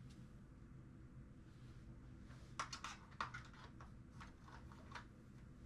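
Near silence with light clicks: a quick cluster about two and a half seconds in, then a few scattered clicks near the end.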